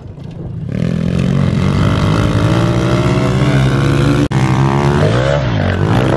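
Minibike engines running hard at high revs, getting loud about a second in and holding steady with small changes in pitch, with a brief cut-out a little after four seconds.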